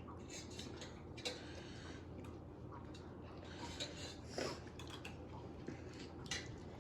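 Scattered light clicks and clinks of cutlery and dishes during a meal, a handful of short taps over a faint steady background.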